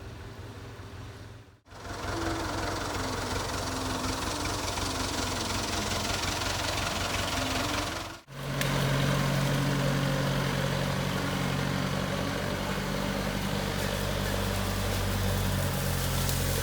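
JCB 3CX backhoe loader's diesel engine running steadily. The sound drops out abruptly twice, about one and a half seconds in and again about eight seconds in. After the second break the engine note is louder, with a steady low hum.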